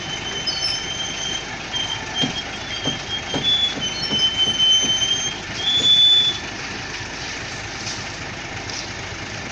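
Concrete mixer truck running steadily, with a high squeal that comes and goes from about half a second in to about six seconds in, over a string of knocks; after that only the steady running remains.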